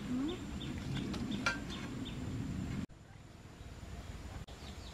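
A bird calling in a regular series of short, falling chirps, about three a second, over a low rumbling background. The sound drops away abruptly about three seconds in, then faster chirps return near the end.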